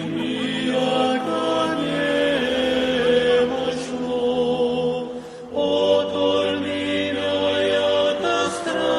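Choir singing a slow church chant in long held notes, with a short breath between phrases about five seconds in.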